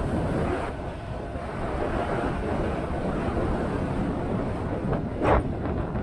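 Motorcycle on the move: a steady rumble of engine and road noise with wind buffeting the microphone. A single sharp knock sounds about five seconds in.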